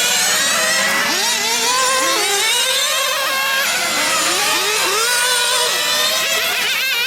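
Several small glow-fuel RC car engines running together on track, their high-pitched notes rising and falling over one another as the cars accelerate and lift off.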